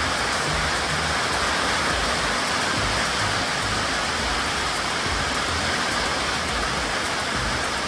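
Steady downpour of rain, an even, unbroken hiss, falling on the corrugated metal carport roof and the ground around it.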